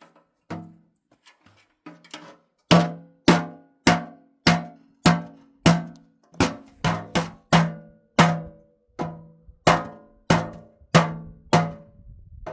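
Repeated hard knocks on a resonant object, roughly two strikes a second, each with a short ringing tone that dies away. The first few about half a second and two seconds in are fainter, and the strikes grow loud from nearly three seconds in.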